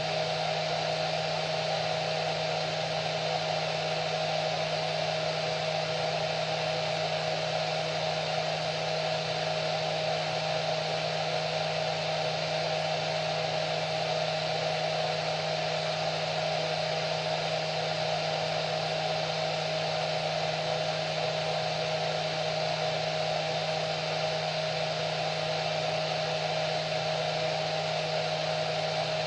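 Hair dryer running steadily: an even rush of blown air with a constant mid-pitched whine and a low motor hum, unchanging throughout.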